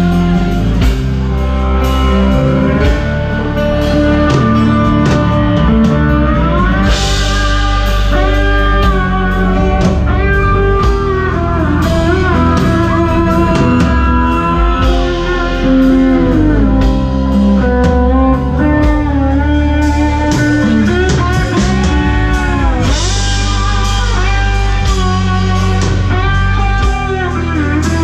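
Blues-rock music: a lead guitar plays bending, sliding lines over a steady band backing with bass and drums.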